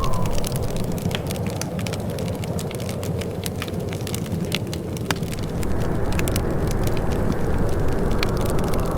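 Wood fire crackling in a fireplace, with many sharp pops and snaps over a steady low rumble that grows a little louder about halfway through.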